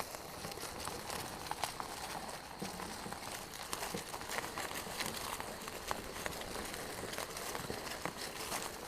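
Footsteps crunching and rustling on a path while walking, an irregular patter of small scuffs and crackles.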